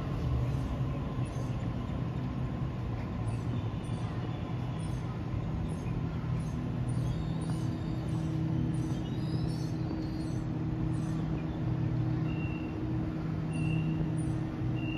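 A train at a station platform: a steady low mechanical hum with a few pitched tones, growing a little fuller about six seconds in, with a faint rising whine in the middle. From about twelve seconds in, a short high beep repeats roughly once a second.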